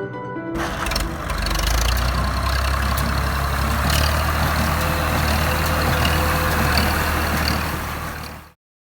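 Heavy diesel farm machinery running at close range: a steady low engine drone under loud mechanical noise, which cuts off suddenly near the end.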